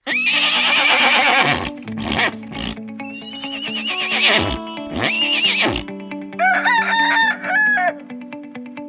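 Farm animal sound effects over light background music with steady held notes. A horse whinnies with a wavering call at the start, then more gliding animal calls follow, and near the end comes a quick run of short repeated calls.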